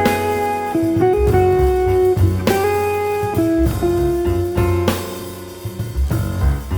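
Jazz instrumental: a melody of long held notes over walking bass and drums, with a cymbal crash about every two and a half seconds.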